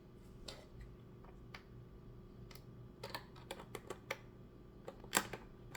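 Scattered, irregular small clicks and taps of a hard plastic toy being handled and opened up, with a sharper click about five seconds in. A faint steady hum lies underneath.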